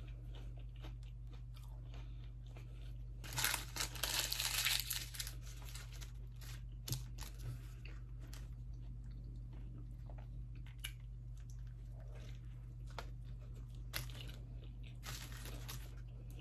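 Close-miked eating of McDonald's breakfast food: chewing and biting, with a louder stretch of crunching or rustling about three to five seconds in and shorter bursts near the end. A steady low hum lies underneath.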